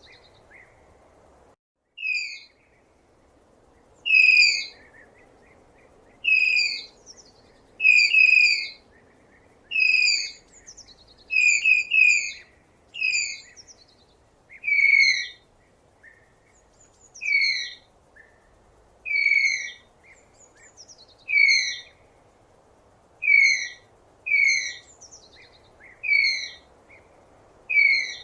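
Tapir giving shrill, whistle-like squeals over and over, one short call every second or two, each sliding slightly down in pitch.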